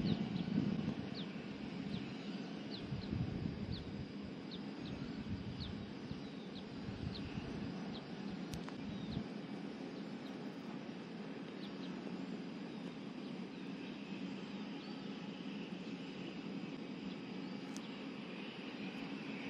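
A small bird chirping in short, high, falling notes, about two a second for the first seven seconds and then only now and then, over a steady low background rumble.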